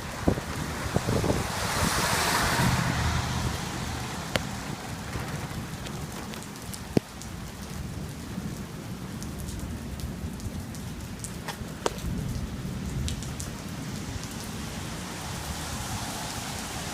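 Heavy rain and gusting wind of a severe thunderstorm: a steady hiss of rain over a low rumble. The hiss surges about two seconds in, and a few sharp ticks sound through it.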